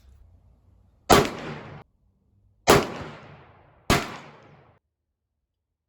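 Three shots from a 2-inch-barrel Smith & Wesson Model 60 revolver firing hand-loaded .357 Magnum rounds (125-grain bullets over Winchester 231 powder). The shots come about a second and a half apart, then a second and a bit, and each one has a short ringing tail.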